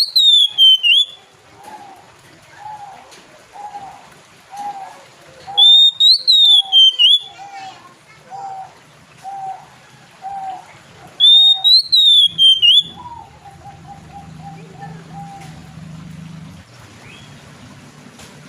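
Oriental magpie-robin (kacer) singing: three loud whistled phrases of a few quick notes each, sliding down in pitch, about six seconds apart. Between them a softer note repeats about once a second, and the last few seconds hold only a faint low hum.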